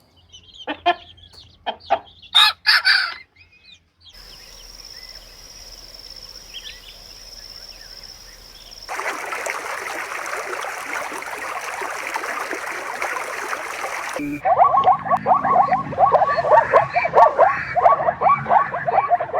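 Chickens calling, including crowing and clucking, across several short clips that cut abruptly about 4, 9 and 14 seconds in; the last stretch is rapid, dense clucking.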